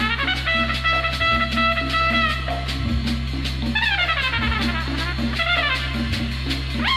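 Instrumental band music with a horn section: held brass notes, then several falling brass glides around the middle and at the end, over a steady bass line and drums.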